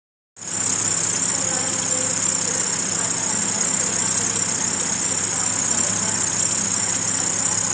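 Nissan Pathfinder's 4.0-litre V6 engine idling steadily, with a steady high hiss over the engine note.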